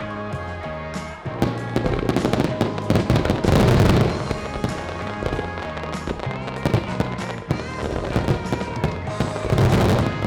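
Aerial fireworks banging and crackling over background music, with dense flurries of crackle about three to four seconds in and again near the end.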